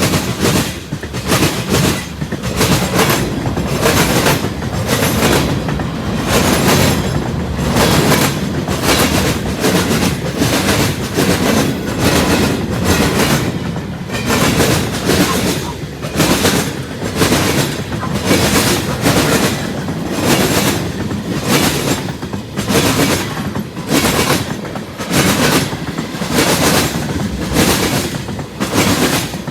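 Freight train cars rolling past at speed, their steel wheels clacking over rail joints in a quick, steady rhythm over a continuous rumble.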